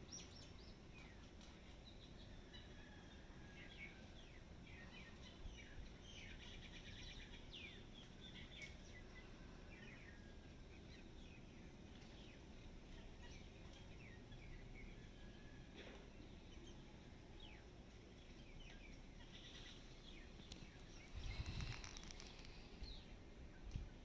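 Faint outdoor bird chorus: many small birds chirping and trilling. There is a brief louder noise a little before the end.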